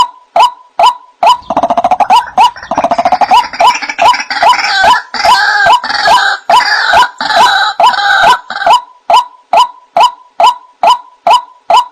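White-breasted waterhen calling: a steady run of short 'wak' notes, about two a second. For several seconds in the middle they give way to a harsher, crowded stretch of overlapping calls, then the even 'wak' series resumes.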